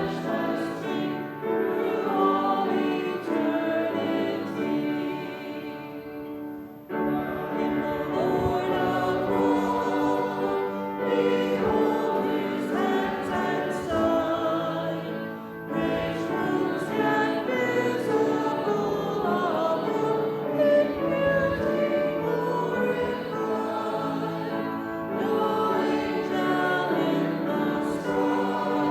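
Church congregation singing a hymn together, with a short breath pause about seven seconds in before the next line.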